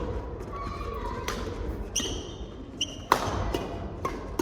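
Badminton doubles rally: a quick run of sharp racket strikes on the shuttlecock, the sharpest about three seconds in, with short shoe squeaks on the court floor between them, echoing in a sports hall.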